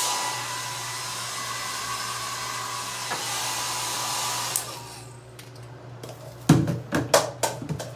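Wall-mounted Conair hair dryer running on its medium setting: a steady rush of air with a faint motor whine, switched off about four and a half seconds in. Near the end, a few loud knocks and clatter.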